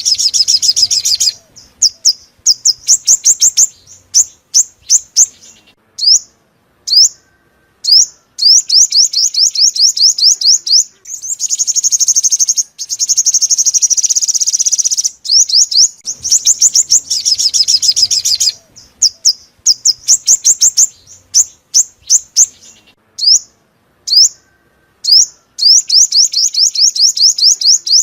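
Sunbird song: quick runs of high, thin sweeping notes, broken by short pauses, with a long buzzy trill in the middle. The same sequence of phrases starts over about halfway through, as in a looped recording.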